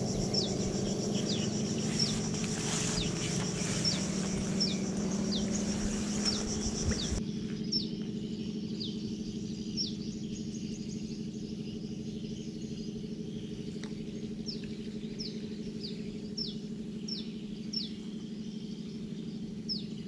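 A small bird calling over and over, a short high chirp that falls in pitch, repeated about every half second, over a steady low hum of outdoor ambience.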